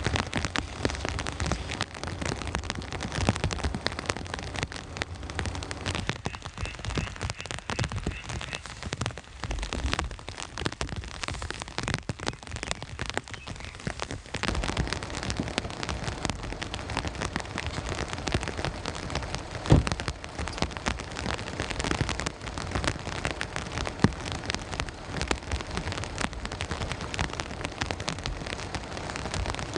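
Steady rain falling, a dense irregular scatter of drop hits, with two louder single drops standing out in the second half.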